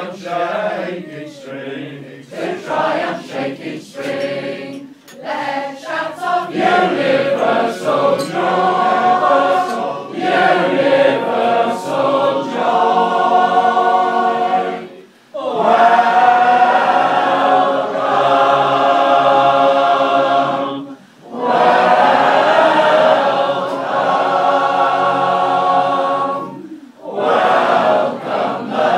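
A choir singing a carol in several voice parts, with short breaks between phrases about 15, 21 and 27 seconds in.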